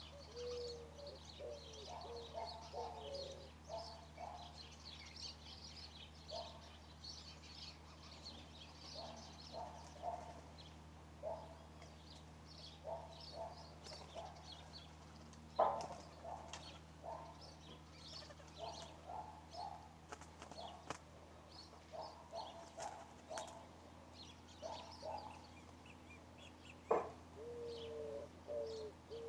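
Several birds chirping and calling, many short high chirps throughout, with lower repeated calls near the start and near the end. Two sharp knocks, one about halfway through and one near the end.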